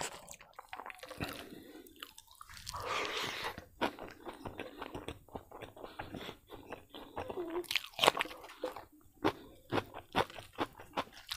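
Close-up eating sounds: mouthfuls of rice with kidney beans and raw green vegetables being bitten, crunched and chewed, with many short wet mouth clicks.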